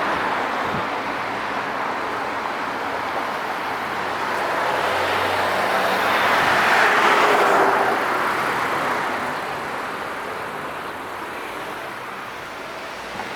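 Steady street traffic noise, with one vehicle passing close: the tyre and engine noise builds to its loudest about halfway through, then fades away.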